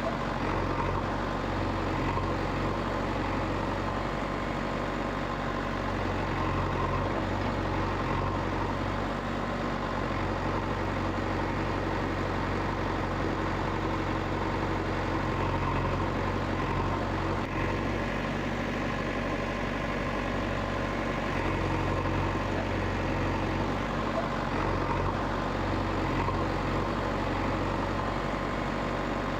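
An engine running steadily at idle, with a low even hum that does not change.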